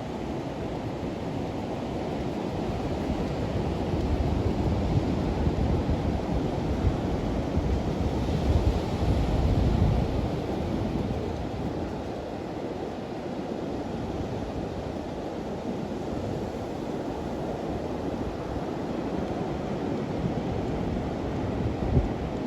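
Wind buffeting the microphone: a steady rumbling rush that swells for a few seconds in the middle.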